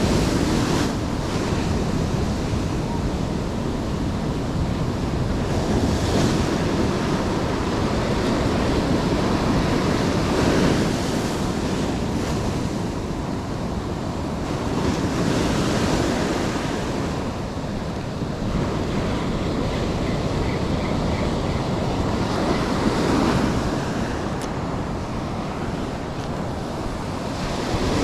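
Ocean surf breaking and washing on the shore, swelling and easing every few seconds, with wind buffeting the microphone.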